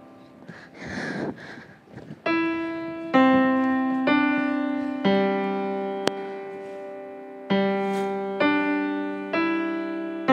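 Slow piano music: single notes struck roughly once a second, each left to ring and fade, starting a little over two seconds in. Before it, about a second in, a brief noisy rustle.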